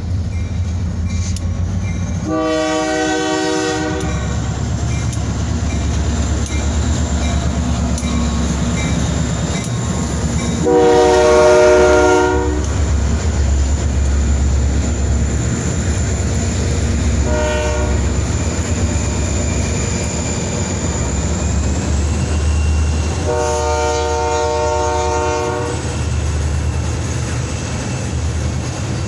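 Freight train of EMD SD-series diesel locomotives sounding a chime air horn in the long-long-short-long pattern of the grade-crossing signal, over the steady rumble of the diesel engines. The second long blast is the loudest.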